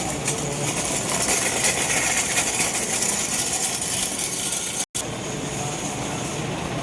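Heavy rain pouring down, a steady loud hiss and patter, with a vehicle engine running low underneath. The sound drops out for an instant near five seconds and then goes on slightly quieter.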